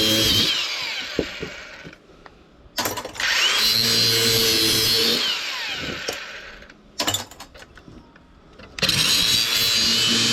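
Handheld power tool cutting scrap metal, run in three bursts: the motor winds down about a second in and again around six seconds in, then starts up again each time. A few sharp clicks come during the second pause.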